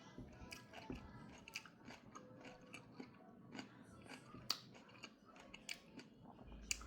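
Someone chewing and biting food close to the microphone: faint, irregular crunches and mouth clicks.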